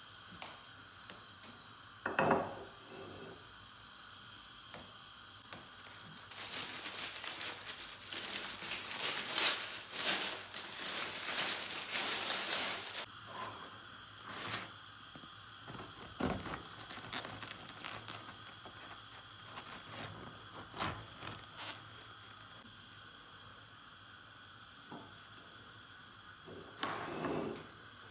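Kitchen handling sounds: a crinkly rustle, like packaging being handled, for about six seconds in the middle, with scattered knocks and clicks before and after.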